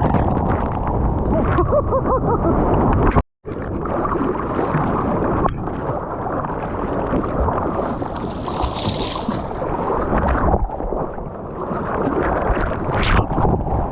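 Seawater sloshing and churning around a GoPro while surfing, with wind buffeting the microphone. The sound drops out completely for a moment a little over three seconds in, at an edit cut.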